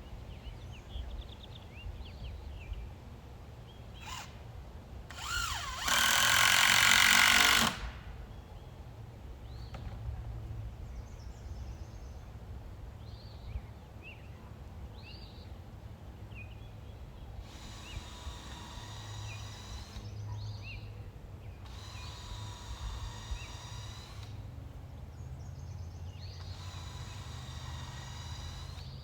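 Power drill driving screws: a loud run of about two seconds about six seconds in, then three shorter, quieter whirring runs near the end.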